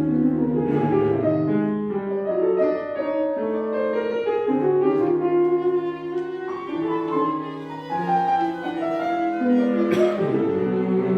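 Chamber ensemble music: piano with clarinet and bowed strings, including cello, playing overlapping sustained lines, with a sharp accented attack about ten seconds in.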